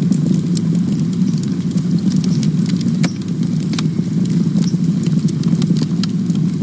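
Campfire burning: frequent sharp crackles and snaps over a steady low rumble of the flames.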